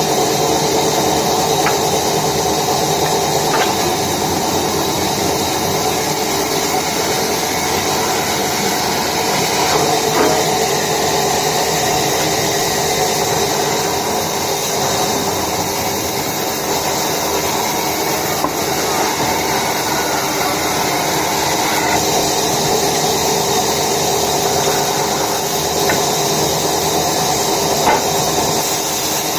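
Woodworking machinery running steadily, a continuous motor and cutting noise with a few faint knocks.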